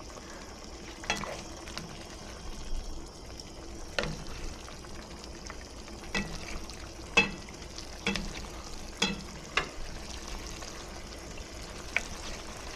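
Fried rice frying in a pan with a faint steady sizzle, while a utensil stirs it, knocking and scraping against the pan at irregular moments about nine times.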